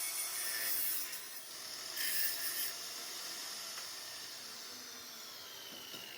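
High-pitched hissing from tool work, in two louder bursts in the first three seconds, then fading, with a faint whine falling in pitch in the second half.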